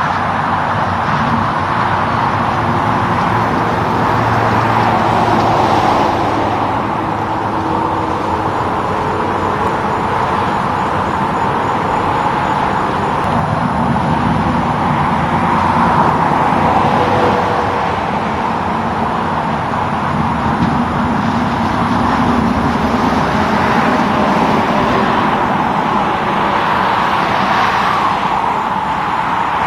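Highway traffic: a continuous stream of trucks and cars passing, steady tyre and engine noise that swells and eases as vehicles go by.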